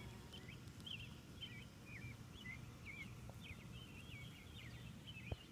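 Small birds chirping in a steady string of short, varied high calls over a low hum from honeybees crowded on the front of a hive. A single knock near the end.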